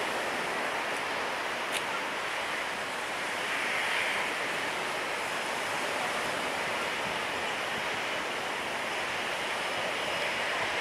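Steady wash of surf breaking on the beach, swelling slightly partway through.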